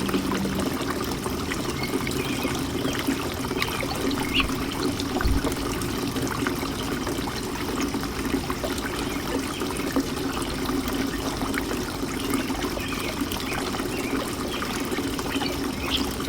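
Birdbath fountain water trickling and splashing steadily.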